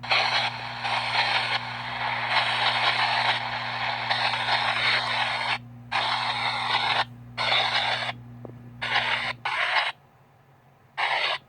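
PXB 07 spirit box sweeping through radio stations: a loud hiss of static broken by short gaps, over a steady low hum that stops about nine seconds in. The static cuts out for about a second near the end, then returns briefly.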